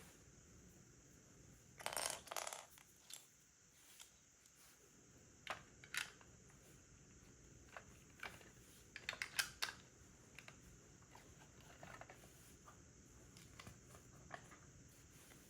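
Plastic Lego pieces being handled and pressed together: scattered light clicks, with a longer rattle about two seconds in and a quick run of several clicks a little past halfway.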